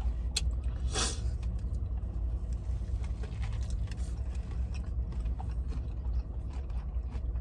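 Someone eating fried chicken strips, with small scattered crunches and mouth clicks and one sharper click about a second in, over a steady low hum.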